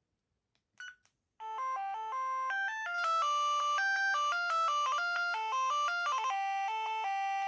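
Amstrad S288 mobile phone playing a ringtone preview: after a short beep about a second in, a quick electronic melody of stepping notes plays through its loudspeaker.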